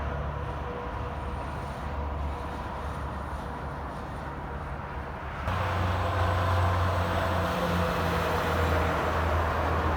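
Highway traffic: engines and tyre noise of vehicles passing on an interstate, a steady low hum that suddenly gets louder and brighter about five and a half seconds in.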